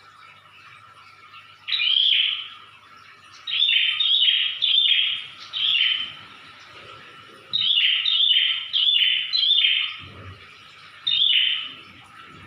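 Prinia (prenjak) giving its loud 'ngedor' call: short, sharp, high notes repeated in quick groups of two to four, with pauses between groups. A faint steady hum runs underneath.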